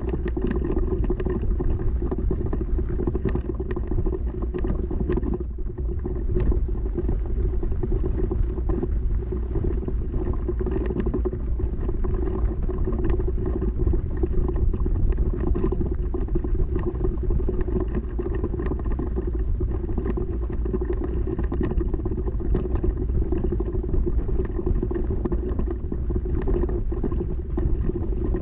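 Steady rumble of a fat bike rolling over a dirt trail, with wind buffeting the microphone.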